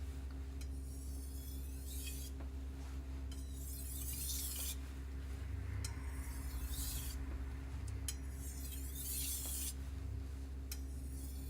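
Knife blade being stroked across a 3000-grit Naniwa Chosera water stone, giving four gritty scraping passes, each about a second long and roughly every two and a half seconds. A steady low hum runs underneath.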